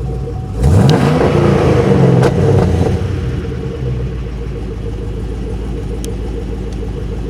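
6.2-litre LS3 V8 from a 2010 Camaro SS idling, given one quick rev about half a second in that falls back over a couple of seconds to a steady idle.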